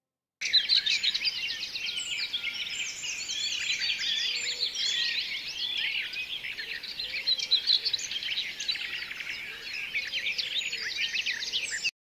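Many small birds chirping and singing together in a dense chorus of quick, high calls, starting about half a second in.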